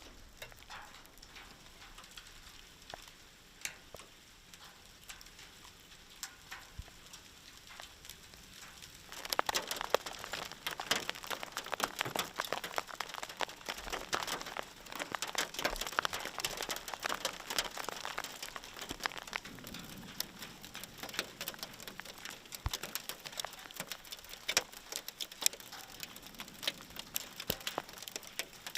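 A shower of volcanic lapilli falling and pattering on surfaces as many small, sharp ticks. It is sparse at first, then about nine seconds in it turns into a dense, louder clatter of impacts.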